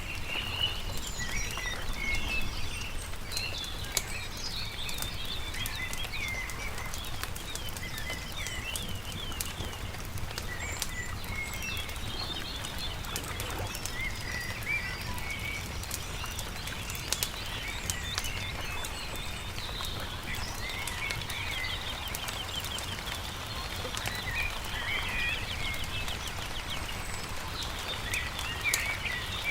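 Songbirds chirping and trilling over a crackling campfire, with scattered sharp pops and a steady low rumble underneath.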